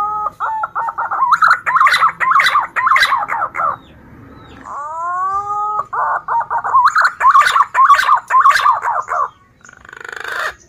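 Male punai daun green pigeon singing: two whistled phrases, each starting with rising glides and breaking into a fast run of warbled notes, followed near the end by a short hoarse, rasping sound.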